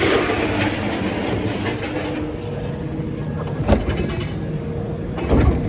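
An engine running steadily, with two loud clanks of scrap metal about three and a half and five seconds in, the second one ringing.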